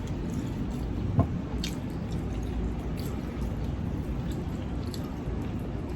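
Wet chewing and mouth sounds of people eating, with a few short clicks, over steady low background noise.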